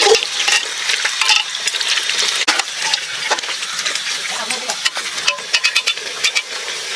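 Chicken and potato curry sizzling in an aluminium pot while a metal spoon stirs it, scraping and clicking against the pot's sides, with a quick run of clicks near the end.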